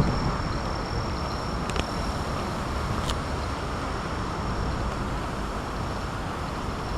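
Typhoon wind rushing over the microphone as a steady low rumble, with a thin high steady tone above it and a couple of faint ticks.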